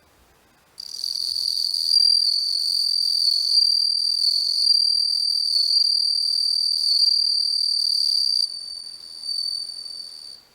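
Japanese bell cricket (suzumushi) singing: one steady high-pitched trill that starts about a second in, drops in loudness after about eight seconds, and stops near the end.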